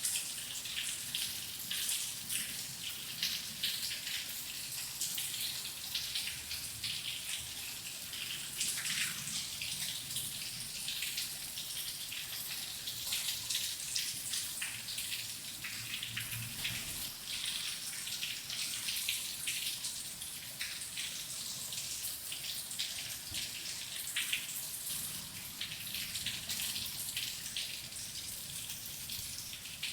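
Steady rain: a continuous hiss with many individual drops striking close by.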